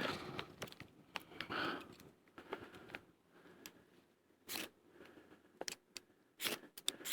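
A handful of short, sharp scrapes of a striker drawn down a ferrocerium rod to throw sparks, irregularly spaced and mostly in the second half, after some soft handling noise.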